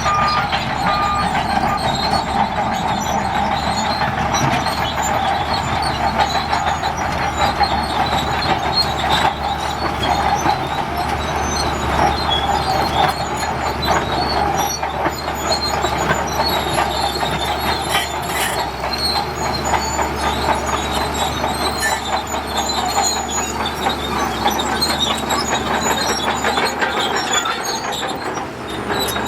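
Heavy earthmoving machinery running steadily, a continuous mechanical noise without a break.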